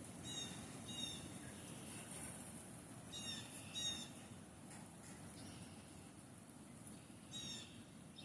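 Birds calling: short pitched calls, two about half a second apart near the start, two more about three seconds in, and one near the end, over a faint steady low rush of wind.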